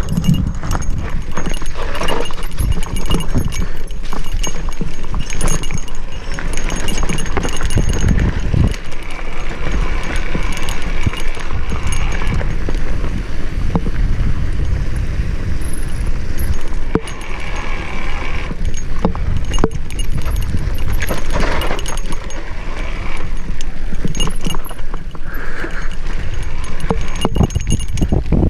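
Mountain bike rattling and clicking as it rides down a rough single-track trail. Wind on the microphone adds a heavy, steady low rumble.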